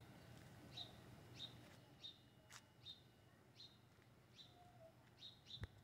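A small bird calling with short, high chirps repeated about once every three-quarters of a second, faint against near-silent street ambience.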